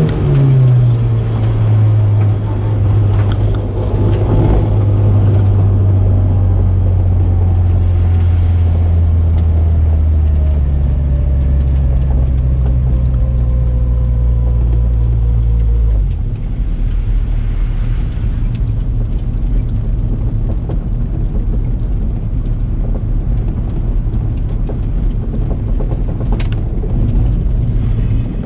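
Toyota MR-S's swapped-in 2ZZ four-cylinder engine heard from inside the car: the revs fall quickly as the car slows, then the engine runs steadily at low revs. About halfway through the note changes and gets a little quieter.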